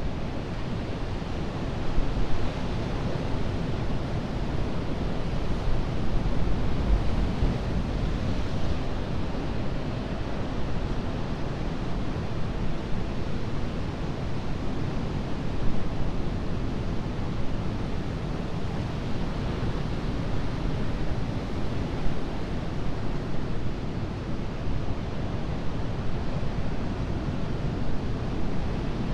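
Ocean surf washing steadily onto a beach, a continuous rushing wash with a deep low rumble that swells and eases slightly from moment to moment.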